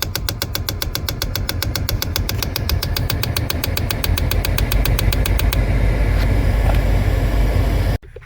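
Jammed air-conditioning servo motor (HVAC door actuator) in a 2011 Kia Sorento ticking rapidly, about nine clicks a second, as its gears jump a tooth with the ignition on. The ticking stops about five and a half seconds in, leaving a steady low rumble that cuts off near the end.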